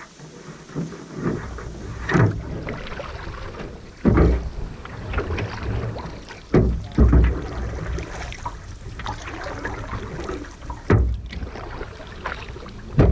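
Canoe being paddled on a river: paddles dipping and splashing, with a handful of louder irregular splashes or knocks against the hull.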